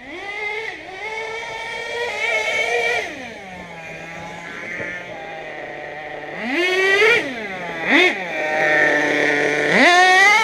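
Nitro HPI Savage RC monster truck's small glow-fuel engine revving up and dropping back to idle several times, with a short sharp throttle blip about eight seconds in and a final rev near the end.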